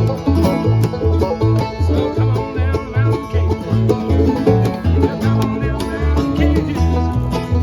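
Bluegrass band playing: rapid banjo picking over a steady bass line that alternates between two low notes about twice a second.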